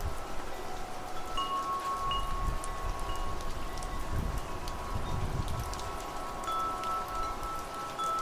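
Wind chimes ringing, several metal tones struck at different moments and left to ring out, over a steady patter of rain. A low rumble of wind swells about two seconds in and fades after the middle.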